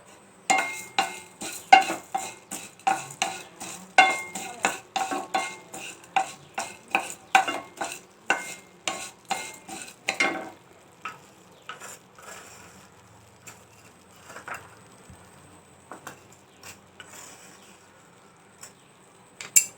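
Coriander seeds being stirred in a pan with a little coconut oil as they roast: the utensil knocks and scrapes against the pan about twice a second for the first ten seconds, then only now and then.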